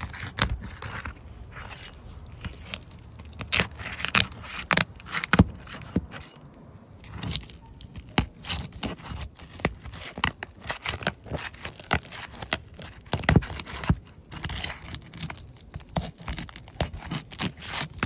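A metal roof snake scraping and prying under asphalt shingles to break their seal strips. Irregular scrapes and sharp clicks.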